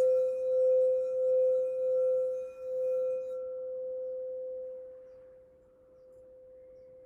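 Root chakra singing bowl ringing after a strike, one sustained tone with a slow wah-wah pulse, dying away: its upper overtones drop out about three seconds in and the tone fades to faint.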